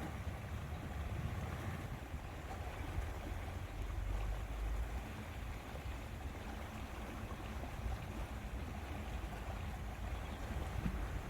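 Wind rumbling on the microphone over a steady wash of lake water.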